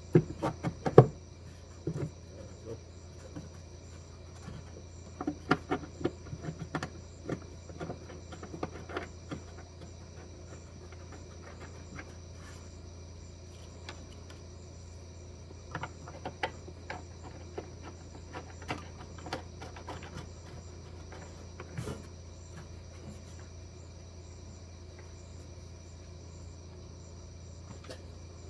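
Scattered clicks and clanks of metal parts and hand tools being handled while working on a car, in several short clusters. Behind them are a steady low hum and crickets chirping.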